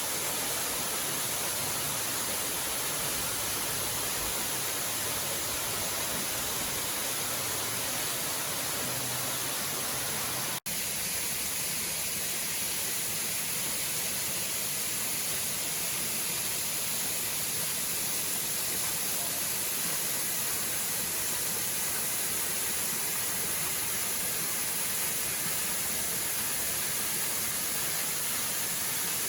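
Steady rushing of a waterfall. About ten seconds in it cuts out for an instant and resumes a little thinner.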